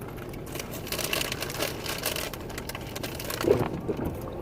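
Crinkly rustling and crunching of a bag of potato chips being handled, in dense crackly bursts. It is broken near the end by a short louder sound with a low pitch, likely a brief voice sound.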